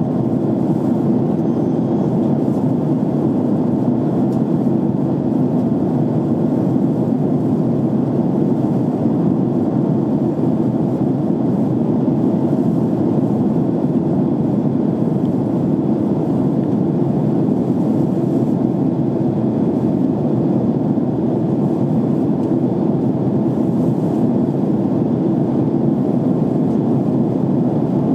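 Steady, even rush of jet engine and airflow noise inside an airliner's cabin in flight.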